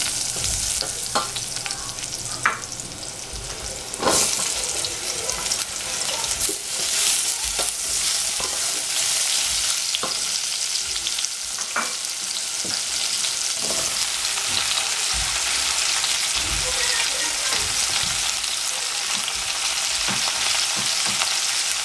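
Shiitake mushrooms sizzling in hot oil in a stainless steel saucepan, stirred with a wooden spoon, with a few sharp knocks in the first four seconds. Chunks of squash go into the pan, and from about eight seconds in the sizzle runs steady and even.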